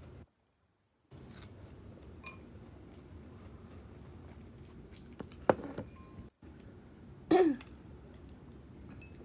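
Close-miked eating of crisp cheese gyoza made with wonton wrappers: a sharp crunch about five and a half seconds in, then a short throat sound falling in pitch about two seconds later.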